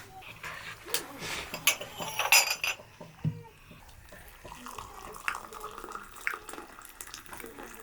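Water pouring and splashing as pots and dishes clink and knock against each other. The splashing is loudest in the first three seconds, and then lighter clinks carry on.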